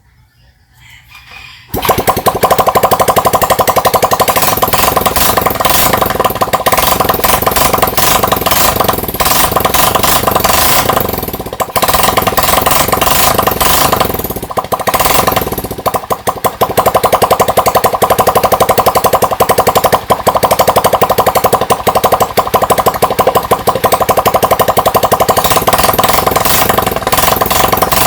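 Freshly overhauled Yamaha STX 125 (YD125) single-cylinder four-stroke motorcycle engine starting up about two seconds in, then running loud and steady with a rapid beat. It briefly drops in level twice around the middle.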